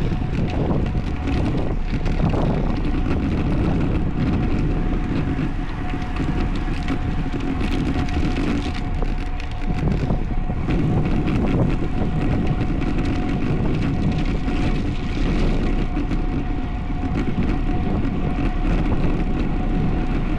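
Steady wind noise over the microphone of a road bicycle riding at speed, with a thin steady tone running underneath.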